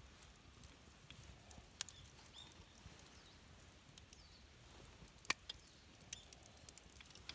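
Campfire crackling quietly, with scattered sharp pops from the burning wood; the loudest pops come just under two seconds in and about five seconds in.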